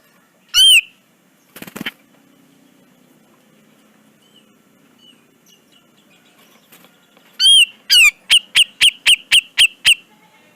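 Cucak jenggot (brown-cheeked bulbul) calling: one loud, harsh note, a short noisy burst just after, then after a pause another loud note and a fast run of about eight clipped notes at around four a second.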